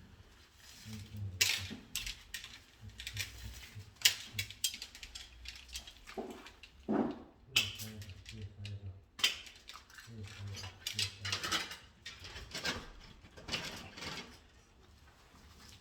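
Hand tools at work: irregular clicks, taps and short ratcheting rattles, with brief bursts of a low hum in between.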